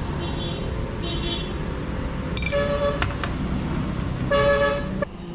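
Road traffic with a steady engine hum and vehicle horns beeping, several short toots early on and two longer, louder honks in the second half.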